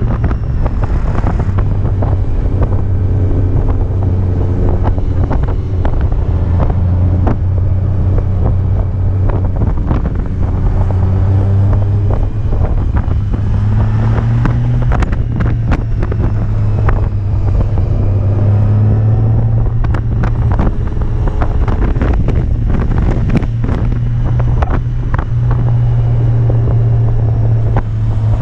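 Motorcycle engine running under way, its pitch rising and falling several times with throttle and speed, with heavy wind buffeting on the microphone.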